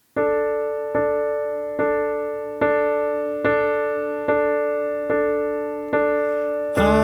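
Piano playing a single chord struck repeatedly at an even, slow pulse, a little over once a second, each strike ringing and fading before the next. Near the end the playing becomes fuller as the song proper begins.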